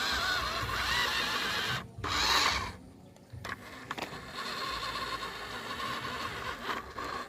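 Radio-controlled truck's small electric motor and gearbox whining, the pitch rising and falling with the throttle. It cuts out briefly about two seconds in and again around three seconds, then runs on.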